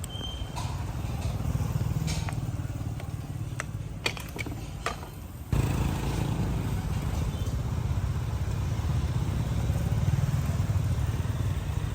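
Motorbike engines running in street traffic, a steady low rumble, with a few light clicks around the middle and a sudden jump in loudness about five and a half seconds in.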